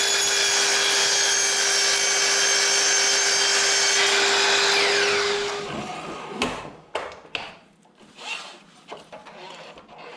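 Power saw cutting hinoki cypress louver boards: the motor runs at a steady high whine, then winds down and stops about five or six seconds in. After that come several sharp wooden knocks and rubbing as the boards are handled.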